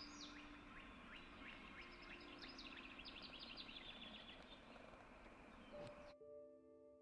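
Birdsong over a steady outdoor background hiss: a bird sings a run of short, quick chirps, several a second. About six seconds in it cuts off abruptly to soft music of sustained, ringing tones.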